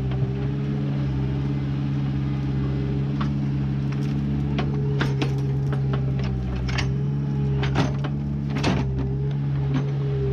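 Mini backhoe's diesel engine running steadily while it digs, with sharp knocks and clanks from the working arm and bucket scattered through. The loudest knock comes about three quarters of the way through.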